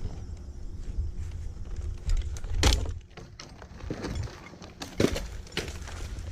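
Low wind rumble on the microphone with a few sharp knocks and clacks, the loudest about two and a half and five seconds in.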